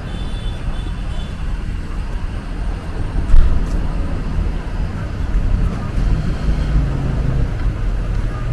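City street traffic: a steady low rumble of passing and idling vehicles, with a single sharp knock about a third of the way in and an engine hum growing near the end.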